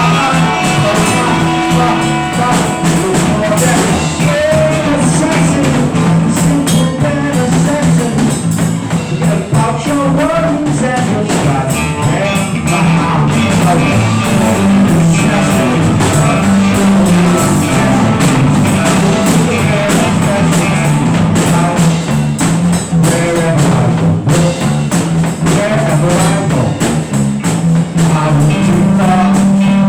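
Rock band playing a loud, continuous improvised jam, with a bass line stepping between notes under the other instruments.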